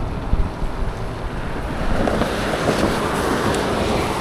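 Wind rushing and buffeting against the microphone, a dense steady noise with no clear tone or rhythm.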